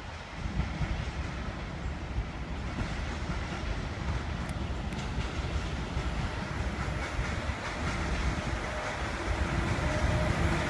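A train approaching on the tracks through a railway station, its rumble growing steadily louder. A steady high tone comes in near the end.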